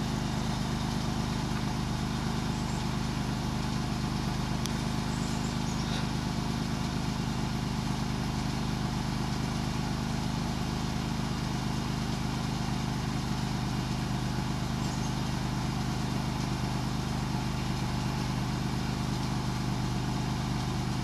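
Plymouth Voyager minivan's engine idling steadily shortly after a cold start in below-freezing weather.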